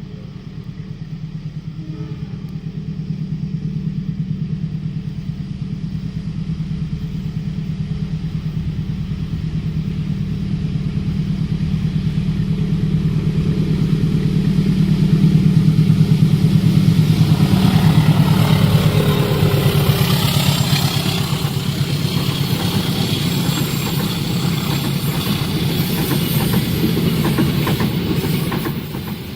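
Diesel locomotive's engine running steadily, growing louder as the train approaches, then passing at speed with a falling pitch, followed by the coaches' wheels clattering and hissing along the rails.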